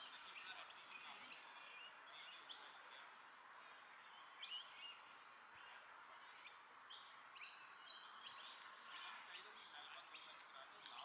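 Faint bird chirps: short, high calls repeated every second or so, with a louder cluster about four and a half seconds in.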